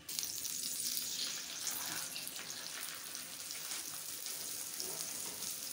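Oil sizzling steadily under a stuffed aloo paratha frying on a flat griddle (tawa). It starts suddenly, then keeps up an even hiss.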